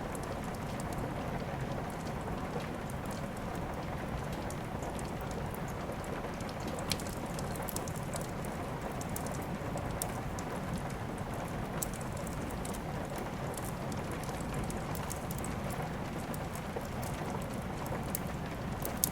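Steady rain falling, an even hiss, with scattered sharp crackles of a wood fire over it.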